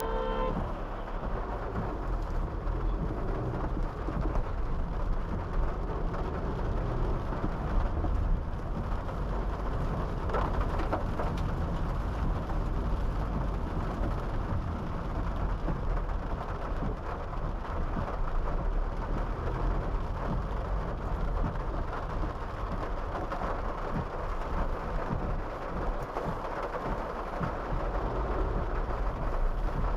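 Steady rain noise over a continuous low rumble, from a Honda City 5th-gen sedan driving in the rain.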